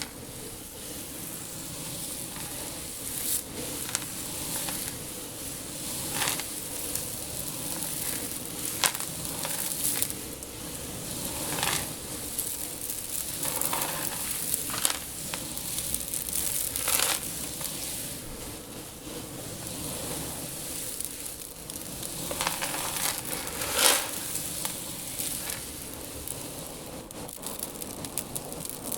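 Loose seed shifting and rustling with a steady granular hiss, broken every few seconds by louder crunching surges as a body or hands move through a tank of seed.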